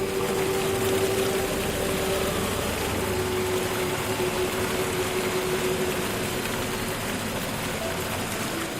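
A steady rushing noise like falling rain or running water, with a faint held tone underneath that fades out near the end.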